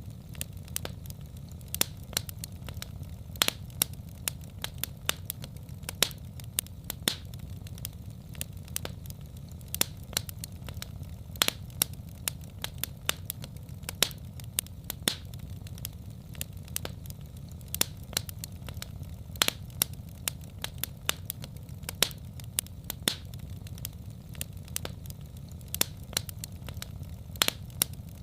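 Wood fire burning in a fireplace, crackling with sharp, irregular pops several times a second over a steady low rumble.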